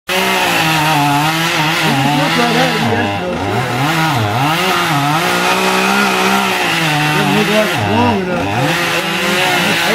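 Chainsaw running at high revs while cutting wood, its engine pitch dropping and recovering several times as the chain works through the cut.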